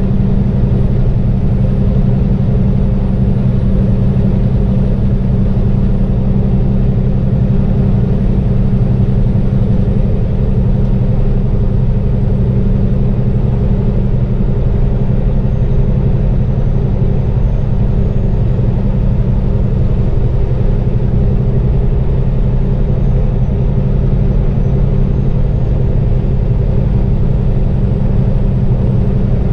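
Loaded semi-truck's diesel engine droning steadily while driving, a continuous low hum.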